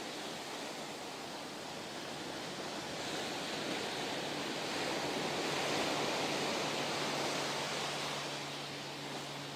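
Ocean surf rushing; the wash swells to a peak about halfway through and fades again, like a wave coming in and drawing back.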